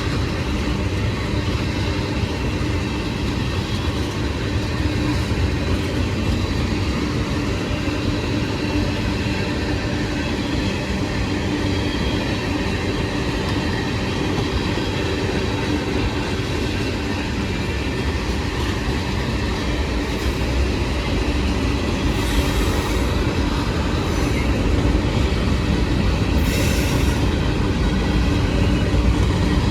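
CSX freight train's cars rolling steadily past: a continuous rumble of steel wheels on the rails with clickety-clack over the joints and a steady wheel squeal. Two short, shrill squeals stand out late on.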